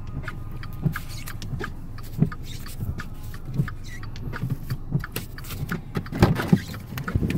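Car driving through deep snow, heard from inside the cabin: a steady low engine and road rumble with irregular crunching clicks and knocks, which grow louder and come thicker about six seconds in.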